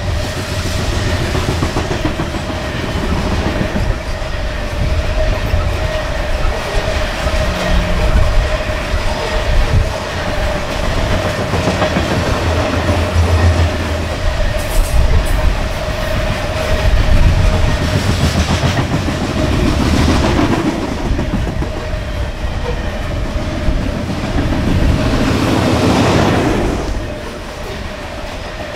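Coal train rolling past, the car wheels clicking over the rail joints, with a steady tone held under the rumble.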